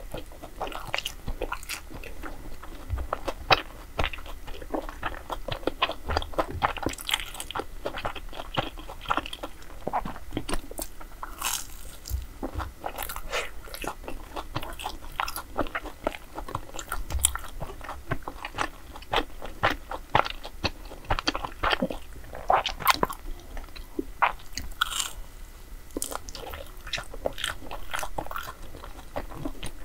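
Close-miked eating of crisp-fried Korean sweet snacks: irregular crunchy bites and wet chewing clicks, one after another.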